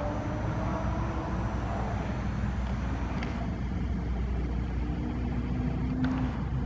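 A road vehicle's engine running with a steady low rumble, with a few faint tones that hold or slide slightly in pitch.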